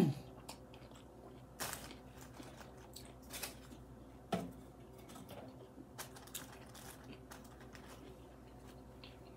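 A person chewing a mouthful of food, with soft wet mouth clicks and a few short louder crunching or smacking sounds scattered through, the strongest about one and a half seconds and four seconds in.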